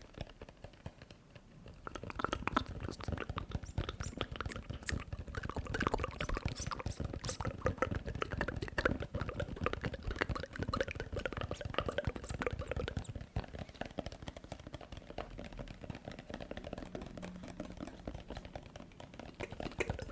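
Close-miked ASMR mouth sounds: a rapid, dense run of wet clicks and smacks that picks up about two seconds in.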